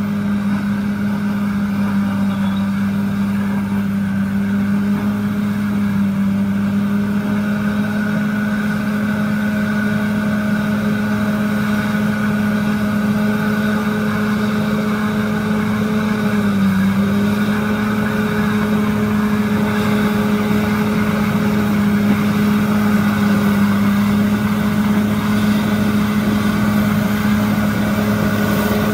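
Bulldozer's diesel engine running steadily at a constant pitch, with one brief drop in pitch about 17 seconds in before it recovers, as when the engine is loaded.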